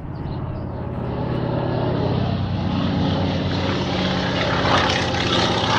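Propeller-driven crop-spraying plane flying low, its engine growing louder over the first few seconds as it approaches and then staying loud as it passes close by.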